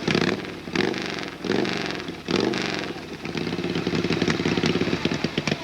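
Harley-Davidson hillclimb motorcycle's V-twin engine revved twice, the pitch falling back after each blip, then settling into a fast, lumpy idle.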